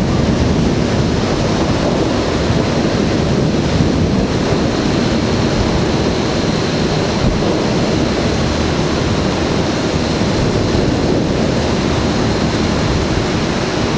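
Storm wind buffeting the microphone: a steady loud rushing noise with no break or distinct thunderclap.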